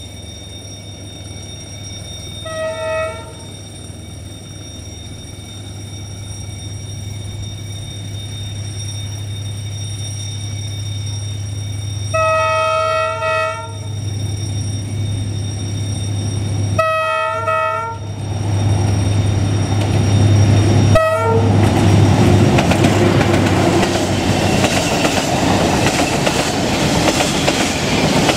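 Vietnam Railways D19E diesel-electric locomotive hauling a freight train. Its engine drones steadily and grows louder as it approaches, and its horn sounds four times: a short blast, a long one, another of about a second, and a brief toot. The freight wagons then rumble past close by with clattering wheels.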